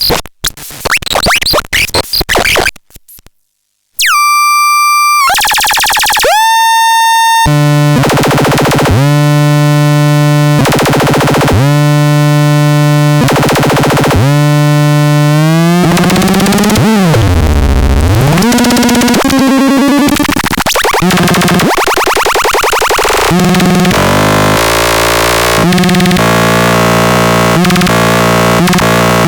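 Tukaton SL synthesizer being played: choppy, glitchy noise bursts stop short, and after a brief silence come pitch-gliding tones. A loud buzzy bass note then keeps re-triggering, swoops down and back up in pitch about halfway through, and breaks into stepping, changing notes near the end.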